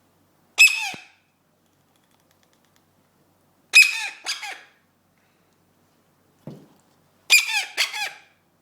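Seven-week-old eclectus parrot chick giving short, high-pitched squawking calls: one call, then two close together a few seconds later, then a quick run of about three near the end.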